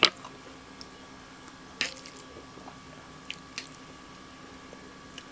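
Close-up mouth sounds of a person chewing a mouthful of food, with a few short wet smacks, the loudest right at the start, over a faint steady hum.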